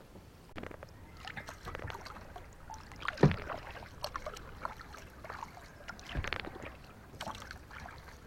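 Kayak paddle strokes splashing in calm water, with drips between strokes and two thumps, the loudest about three seconds in and another about six seconds in.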